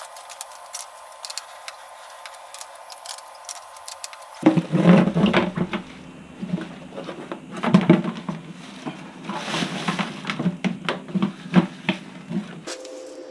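Irregular knocks, taps and clatter of hands working with hard objects, louder and busier from about four seconds in.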